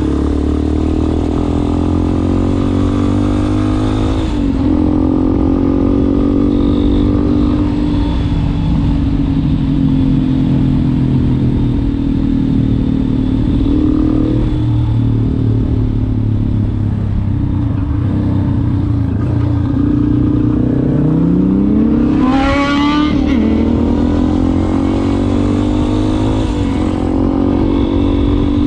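Yamaha Ténéré 250's single-cylinder four-stroke engine running through an aftermarket WACS exhaust tip, its note drifting gently up and down. About two-thirds of the way through it revs up, sweeping sharply higher in pitch before settling back.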